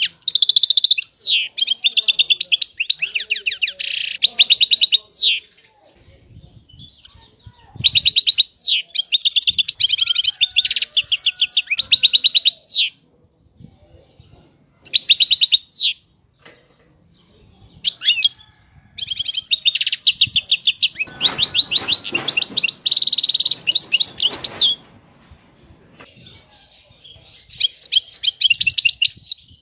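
European goldfinch singing: phrases of rapid, twittering trills a few seconds long, separated by short pauses. About two-thirds of the way through, a brief rough noise sits under the song.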